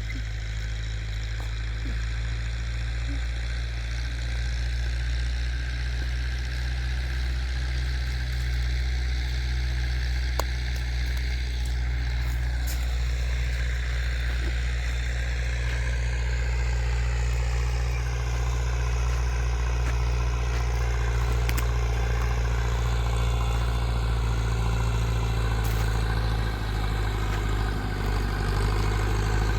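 Tractor engine running steadily with a low rumble, its pitch shifting briefly midway and again near the end.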